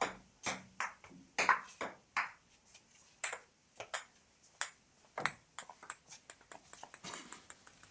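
Table tennis rally: a celluloid ball clicking off bats and table about every half second, then near the end a run of quicker, fainter bounces as the ball bounces to rest.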